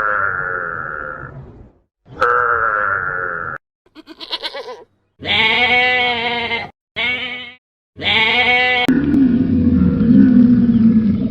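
A run of animal calls, each one to two seconds long and pitched with a wavering tone, with a short rapid stutter between them. About nine seconds in, the sound cuts abruptly to a different, lower, continuous sound.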